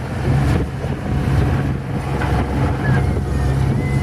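Tour boat's engine running with a steady low hum, with wind buffeting the microphone.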